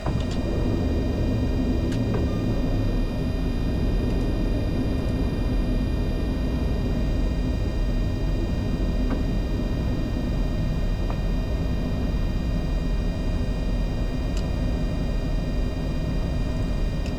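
Steady cockpit noise of a Bombardier Challenger 605 jet on approach: a constant low rumble of airflow and engines, with thin steady high tones running over it. The aircraft is being configured for landing with gear down and flaps 30.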